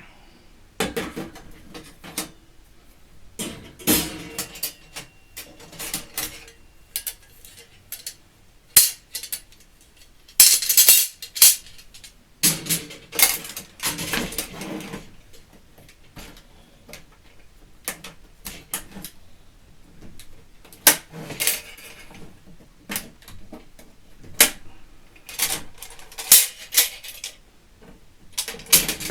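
Stainless steel fire pit parts clinking and clattering as they are handled and fitted together, in irregular bursts of metal-on-metal knocks and rattles.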